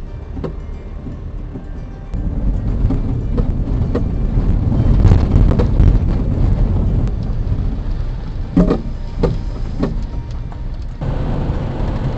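Car driving over small bumps, with road and running noise and several sharp knocks from the front suspension. The knocks come from the front anti-roll bar, whose rubber bushing has popped out of its bracket, so the bar bangs metal on metal.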